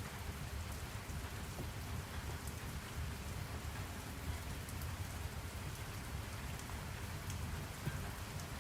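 Steady rain: an even hiss of rainfall with scattered drop ticks and a low rumble underneath.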